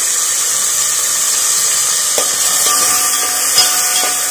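Green peas sizzling in hot oil with a tempering of mustard seeds, cumin and curry leaves, a steady frying hiss. A few light knocks come about two and three and a half seconds in.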